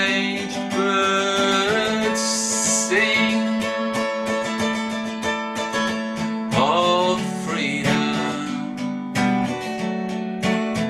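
Song: a voice singing a melody over strummed acoustic guitar.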